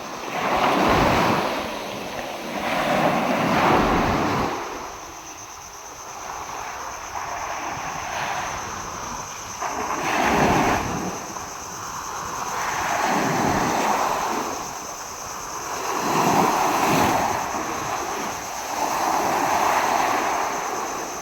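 Big typhoon-driven ocean waves breaking and crashing, the surf noise swelling and falling away every few seconds, with wind buffeting the microphone.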